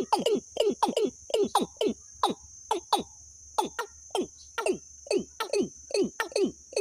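Bird call recording played as a lure: short notes that drop quickly in pitch, repeated several times a second in pairs and runs, with a brief gap around the middle. A steady high insect-like buzz runs underneath.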